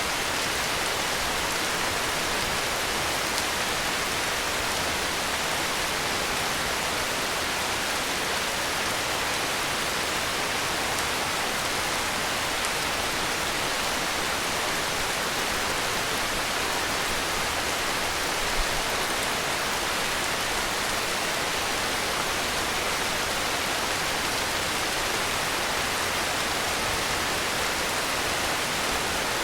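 Heavy rain falling steadily, an even hiss with no gaps or changes.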